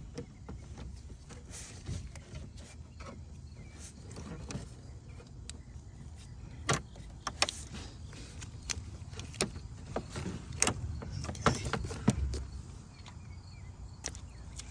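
Scattered clicks and knocks of hand tools and plastic hose clips being worked loose from coolant hoses, with a low steady rumble under them.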